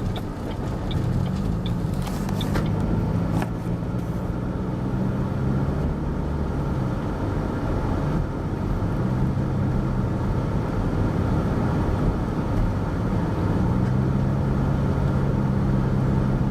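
Car driving slowly, heard from inside the cabin: a steady engine hum and road noise, the engine note strengthening and easing a few times. A few light clicks in the first few seconds.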